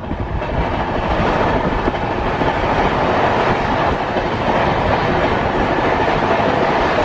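Indian Railways passenger train running on the rails: a steady, loud rumble of wheels and coach.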